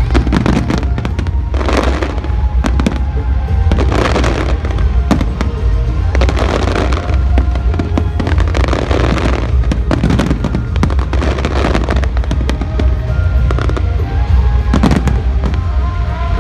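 Fireworks display: bursts every second or two, with crackling in between and a steady low rumble, over music.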